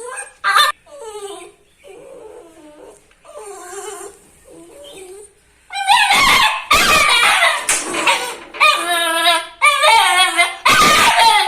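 A puppy whimpering in short, soft whines that bend up and down. About six seconds in it breaks into loud, high-pitched yapping barks in quick succession.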